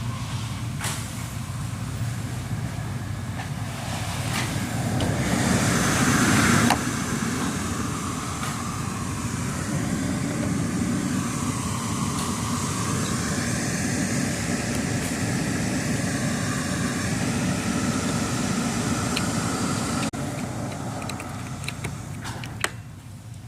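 Steady motor-vehicle rumble and hiss that swells about five to seven seconds in, with a few sharp clicks along the way.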